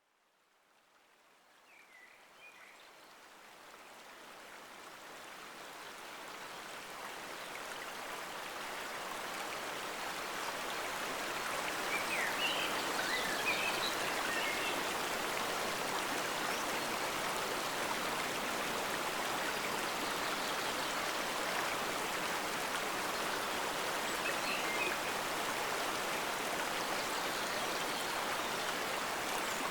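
Forest stream flowing steadily, fading in from silence over the first ten seconds or so. A few short high chirps sound over it now and then.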